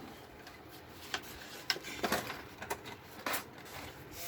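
Scattered sharp clicks and light knocks of cables and connectors being handled and plugged in on an LED TV's circuit board, about five over a few seconds.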